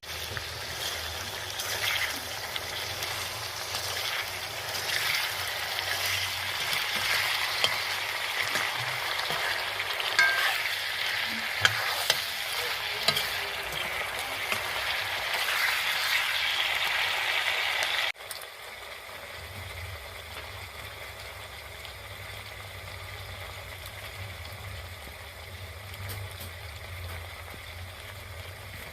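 Food frying and sizzling in hot oil in a pan, with scattered clicks and scrapes of stirring. About two-thirds of the way through the sizzle cuts off abruptly, leaving a quieter low steady hum.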